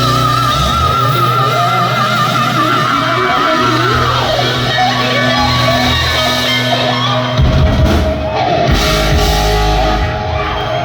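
Hard rock band playing live, electric guitar to the fore over bass and drums, the lead guitar holding a high note with wide vibrato for the first few seconds.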